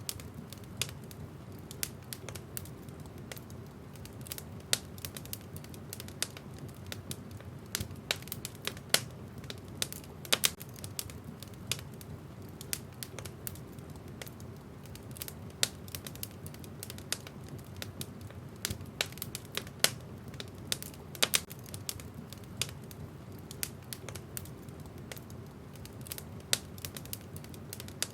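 Wood fire burning in a fireplace, with irregular sharp pops and crackles from the burning logs over a low steady rumble of flame.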